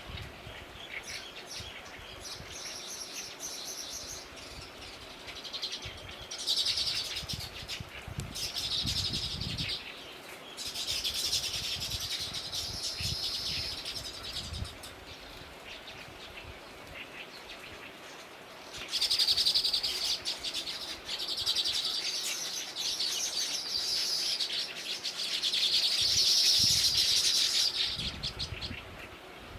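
Small birds chirping in repeated bursts of rapid, high-pitched calls, each burst lasting a few seconds, with the loudest stretch near the end.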